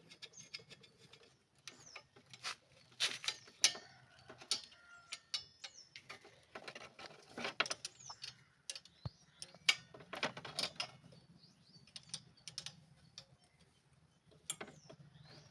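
Hand tools on motorcycle exhaust bolts: a 12 mm wrench clicking and clinking in short, irregular strokes as the nuts are run down and tightened.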